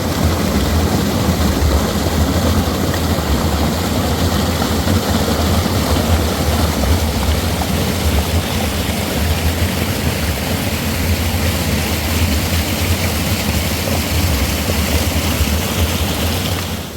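Steady rushing of fast-flowing spring or river water, cutting off sharply at the end.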